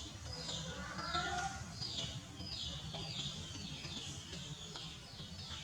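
Small birds chirping: a steady series of short, high chirps, each falling in pitch, about two a second, over a low background rumble.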